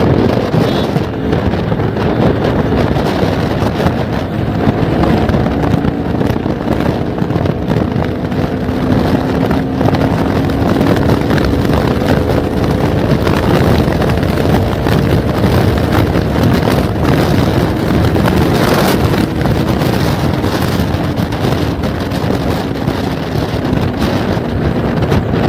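Motorcycle engine running at steady road speed, its tone rising slowly, under heavy wind rush on the microphone.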